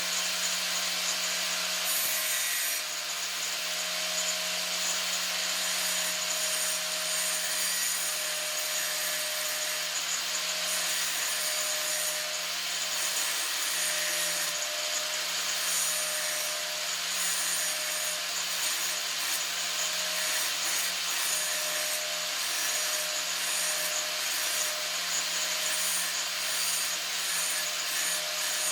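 Scrap metal being shaped with a tool for a homemade tyre lever: a steady rasping noise with a constant low hum beneath it.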